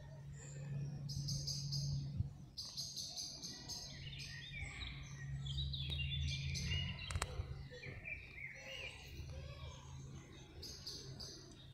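Small birds chirping in repeated short bursts and quick gliding calls, over a steady low hum, with two brief clicks.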